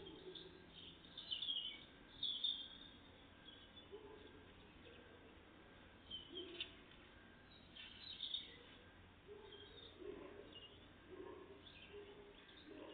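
Faint, scattered chirps and short calls of small songbirds, coming every second or two, the loudest about two seconds in.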